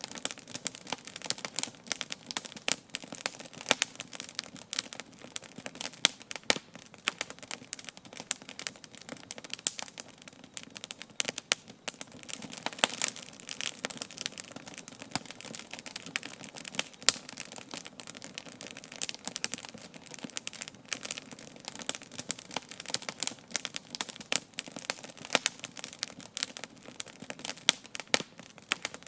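Wood campfire burning with a steady, irregular crackle and frequent sharp pops.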